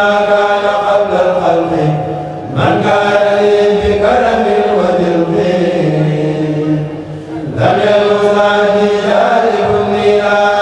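A kourel choir of men chanting devotional verse together without instruments, in long held, gliding phrases, with brief breaks for breath about two and a half seconds in and again near the end.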